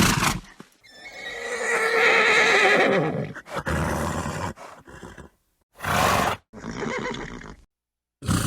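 Horse neighing: one long, quavering whinny starting about a second in, followed by several shorter bursts, each cut off sharply.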